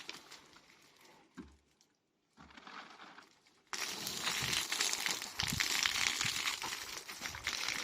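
A plastic tarpaulin crinkles and rustles with water spilling and splashing as a dog pushes at it and tips the rainwater pooled in it. The noise starts suddenly about four seconds in, after a few quiet seconds with faint knocks.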